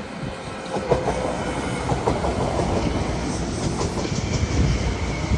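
Train passing close by on the tracks, its wheels clattering over rail joints; the sound swells about a second in and stays loud with a run of wheel knocks.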